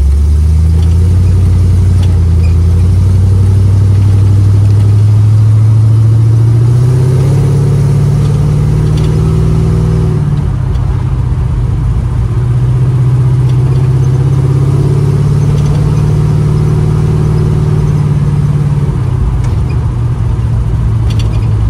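1936 Chevy coupe's small-block Chevy 350 V8 under way, heard from inside the car. Its pitch climbs with the revs, drops about ten seconds in, climbs again and eases off near the end.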